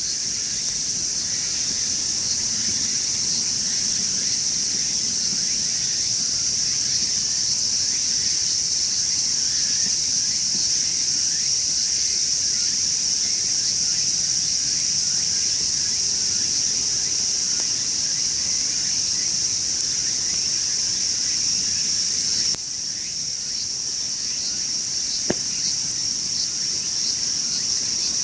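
Steady high-pitched chorus of insects, crickets or the like, chirring without a break and dipping a little in level about 22 seconds in. A single sharp click stands out a few seconds before the end.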